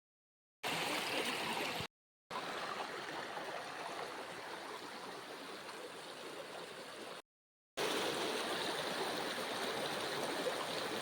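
Rushing water of a rainforest stream, a steady hiss with no tones, heard in three pieces separated by sudden cuts to silence.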